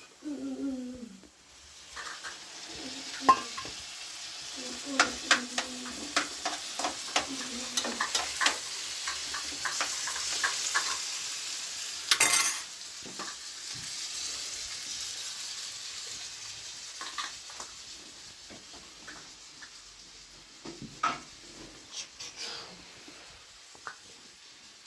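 Food sizzling as it fries in a pan, with a utensil stirring it and knocking and scraping against the pan. The sizzle fades away over the second half, and there is one louder knock about halfway through.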